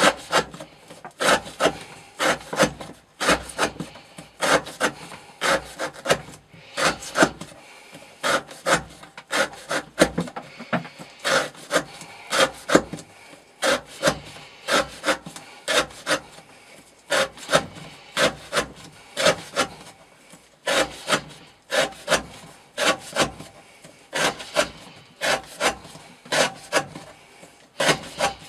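Elmax steel knife blade cutting through rope against a wooden board again and again, about two short cuts a second, in a repeated rope-cutting test of edge wear.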